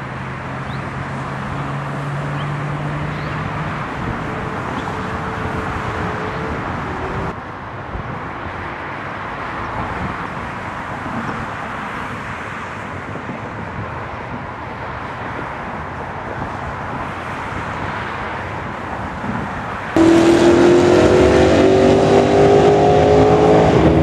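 Car engines running steadily, with a cut at about 7 seconds. In the last four seconds a louder engine accelerates, its pitch rising steadily.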